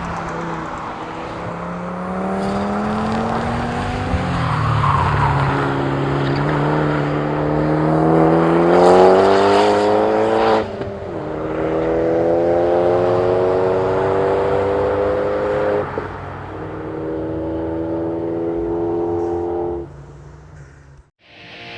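Turbocharged Fiat Panda 100HP's four-cylinder engine at full throttle on track, revving up through the gears with three upshifts, each a quick drop in pitch before it climbs again. It falls away near the end.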